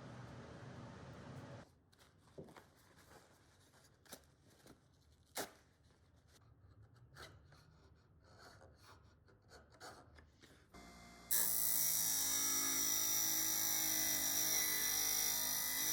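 Scattered light knocks and clicks of workshop handling, then about eleven seconds in an electric power tool switches on and runs steadily at a constant speed.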